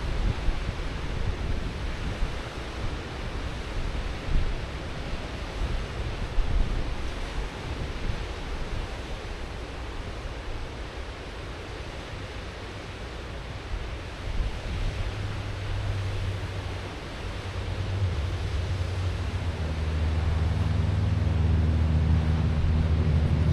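Ocean surf washing ashore, with wind buffeting the microphone. From about two-thirds of the way in, a low engine hum joins and grows louder toward the end, a vehicle running close by.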